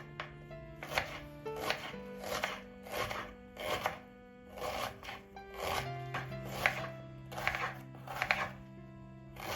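A knife chopping on a cutting board, about a dozen strokes at an uneven pace of one or two a second, over soft background music.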